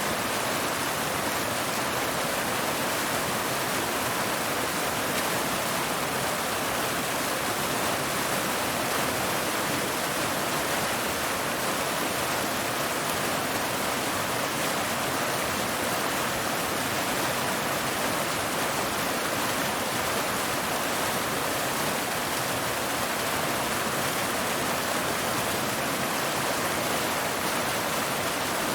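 Waterfall: a steady, unbroken rush of water falling over rocks.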